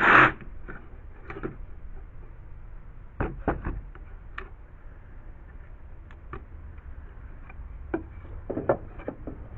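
A power tool running at the very start cuts off within the first moment, followed by scattered light knocks and clicks of wood and tools being handled, with a small cluster of knocks about three seconds in and another near the end.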